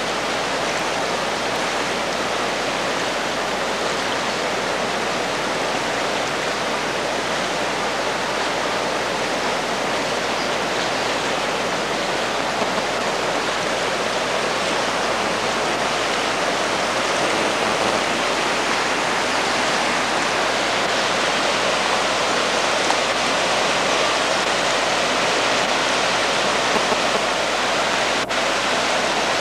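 Flash-flood water rushing steadily down a wadi channel, a loud, even roar of moving water.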